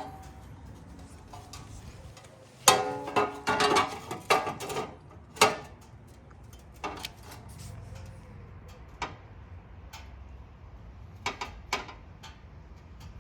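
Scattered clicks and clanks of an A-arm guard and its hardware being handled and fitted onto a Honda Pioneer 700-4's rear A-arm, with a quick run of knocks a few seconds in and single taps after.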